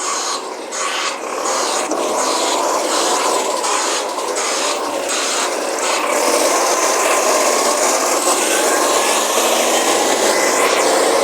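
Recycling waste truck at work: loose recyclables clatter and rattle into the hopper over the first six seconds, then a steadier, louder run of the truck's engine and hydraulics with a faint rising whine.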